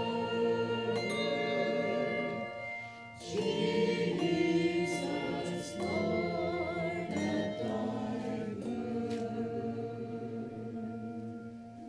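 Church choir singing a Christmas anthem in harmony, with a brief break about three seconds in, then a long held final chord that fades away near the end.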